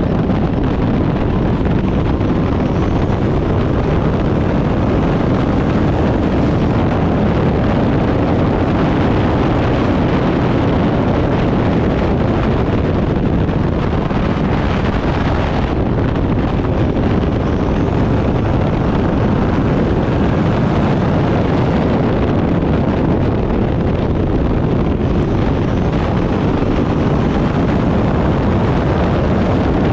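Turbocharged Backdraft Cobra race car running hard on track, heard with heavy wind noise on the microphone. The sound is loud and steady throughout, with faint rising whines every several seconds.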